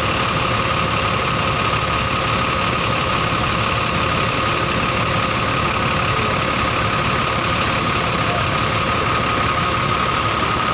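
Scania K380 coach's diesel engine idling steadily, with a constant high tone running over the engine sound.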